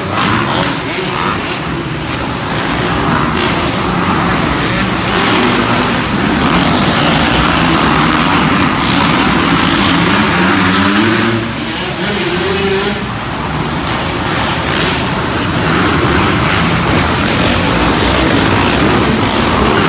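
Several dirt bike engines revving up and down in turn as arenacross racers ride the track, the pitch rising and falling throughout.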